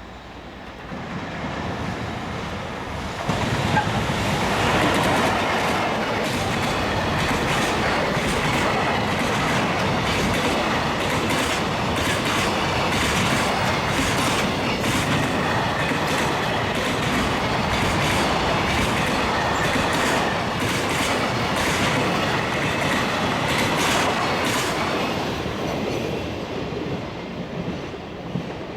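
A freight train made of an EF65 electric locomotive and twenty container flatcars passing at speed: it builds about a second in and gets loud at about three seconds as the locomotive goes by, then a long steady rumble with the clickety-clack of wagon wheels over rail joints, easing off near the end.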